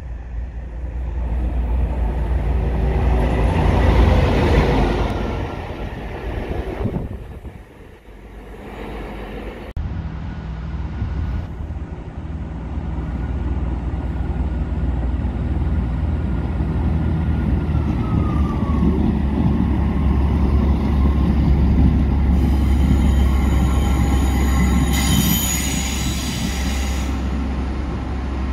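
Trains at station platforms. First a train approaches and passes, loudest about four seconds in. After a cut about ten seconds in, a diesel multiple unit's engines drone steadily as it moves through the station, with a high squeal near the end.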